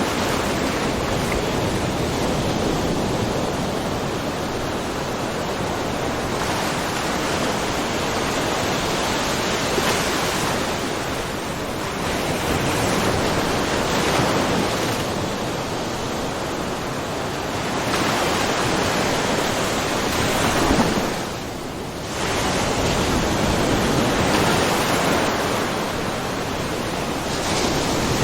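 Small ocean waves lightly splashing over shallow mussel beds. A continuous wash swells and eases every few seconds, with a brief lull about three quarters of the way through.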